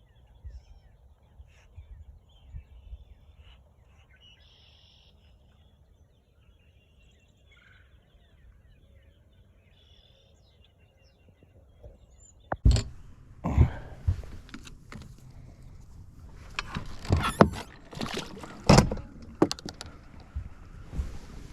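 Faint bird chirps, then about halfway through a run of loud knocks and bumps, like fishing gear being handled against a hard surface.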